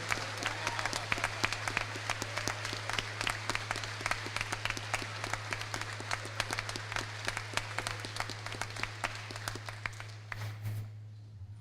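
Audience applauding, a dense run of claps that thins out and stops near the end, over a steady low electrical hum.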